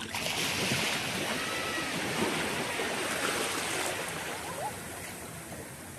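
Sea surf washing in: a rushing hiss of water that swells just after the start and dies away over the last couple of seconds.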